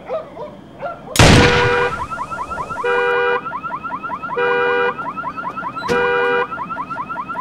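A sudden loud bang about a second in, then a car alarm going off right after it. The alarm cycles between a fast chirping warble and a steady two-tone blare, switching about every second and a half.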